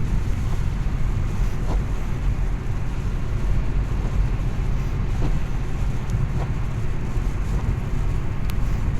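Car driving at road speed, heard from inside the cabin: a steady low rumble of road and engine noise.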